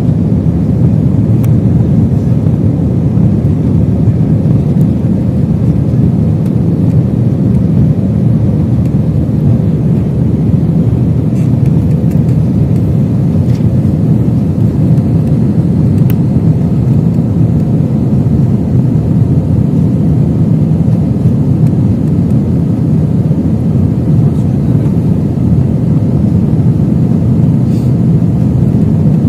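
Jet airliner engines at takeoff thrust, heard from inside the passenger cabin as a loud, steady, deep rumble.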